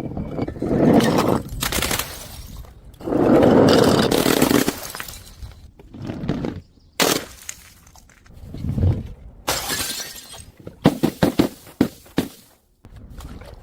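Glass bottles breaking in a series of separate crashes and crunching shatters, two longer ones early, then shorter smashes and a quick run of sharp cracks near the end.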